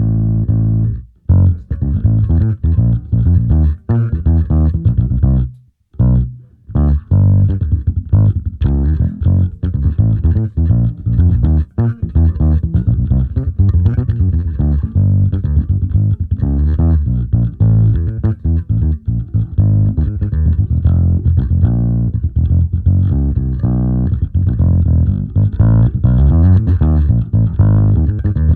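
Electric bass guitar played through a Tech 21 SansAmp preamp into a cabinet impulse response, its highs cut off sharply like a speaker cabinet: a busy riff of quick plucked notes with a heavy low end, broken by short pauses about a second in and again near six seconds.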